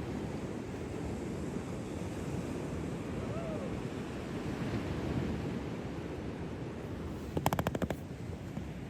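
Surf and wind on the microphone in a steady wash, with a faint short rising-and-falling call a few seconds in. Near the end comes a sharp rapid rattle of about ten clicks lasting under a second.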